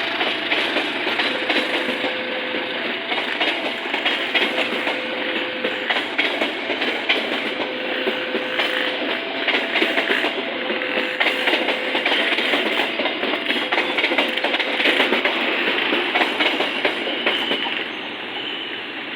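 Passenger train running past, its carriage wheels clicking over the rail joints in a steady clatter. A faint two-tone signal alternates underneath, about every second and a half.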